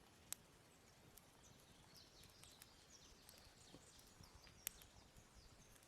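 Near silence: a small twig fire crackling faintly, with two sharp snaps, one just after the start and one near the end, and faint high chirps in the background.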